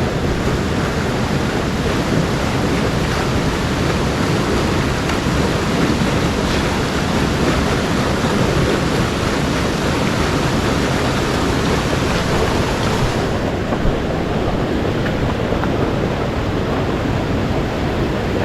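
Steady rush of mountain-stream water, an even, unbroken noise. The highest hiss drops slightly about thirteen seconds in.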